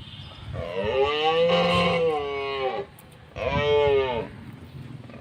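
Domestic cow mooing twice: a long moo that rises and falls in pitch, then a shorter moo about a second later.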